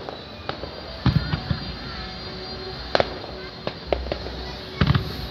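Aerial fireworks bursting in a series of sharp bangs, the loudest clusters about a second in, about three seconds in and near the end.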